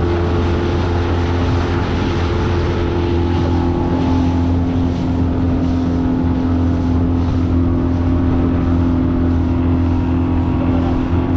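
Honda BF20 four-stroke outboard motor running steadily at speed, pushing an inflatable boat, with wind and water rushing; the engine note shifts slightly about four seconds in.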